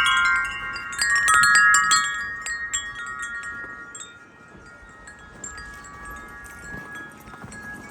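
J.W. Stannard wind chime blown by gusts, its tuned tubes struck in a quick cluster of overlapping ringing notes. About two seconds in the strikes thin out to a few scattered notes while the ringing fades.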